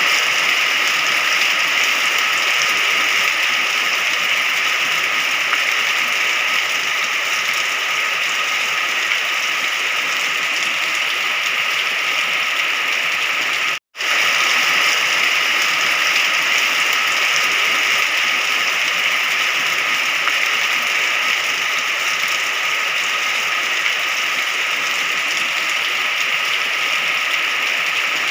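Steady, even rain hiss. About halfway through it cuts out to silence for an instant and comes straight back.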